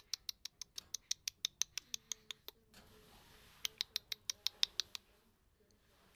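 Rapid, sharp, high clicks, about six a second, in two runs: the first lasts about two and a half seconds, then after a pause a shorter run of about a second and a half.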